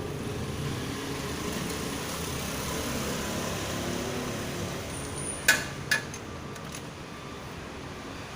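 Steady background rumble, with two sharp clicks about half a second apart a little past halfway.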